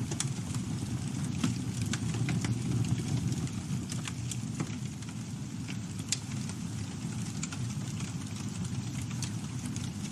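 Campfire burning: a steady low rumble of flames with scattered crackles and pops, one sharper pop about six seconds in.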